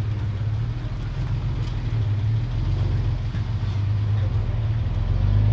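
Komatsu D31PX bulldozer's diesel engine running steadily with a deep, low rumble, growing slightly louder about two seconds in and again near the end.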